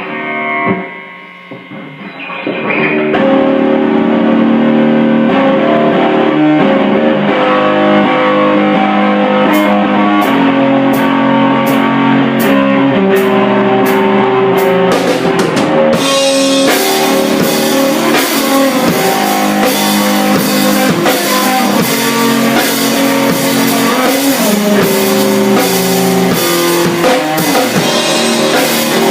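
Improvised rock jam of guitar and drum kit. The guitar plays alone at first, steady high ticks keep time from about a third of the way in, and the full drum kit comes in a little past halfway.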